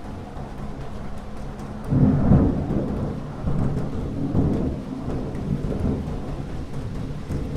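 Thunderstorm: steady rain with a loud clap of thunder breaking about two seconds in and rumbling on in waves.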